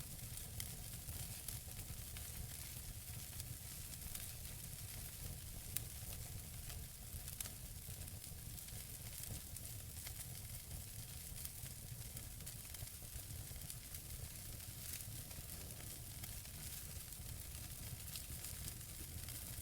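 Wood fire burning in a fireplace: a steady soft hiss with scattered crackles of burning logs and a few sharper pops, the sharpest about six seconds in.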